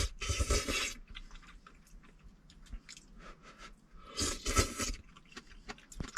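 A person eating close to the microphone: chewing, with two louder noisy bursts, one right at the start and another about four seconds in.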